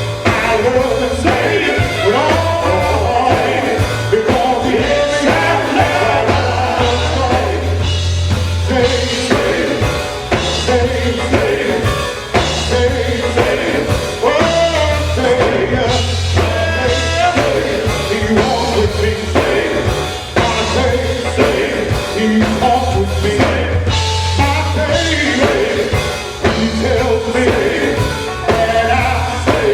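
A gospel group singing a song with a live band, sung voices over a steady bass line.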